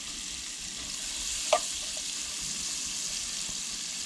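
Chopped sweet onion sizzling steadily in butter and oil in a pan on a camp stove, with one sharp clink about a second and a half in.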